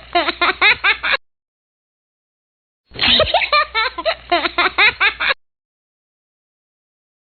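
A short burst of quick, high giggling laughter, heard twice about three seconds apart, with dead silence between and after, like an edited-in laugh clip.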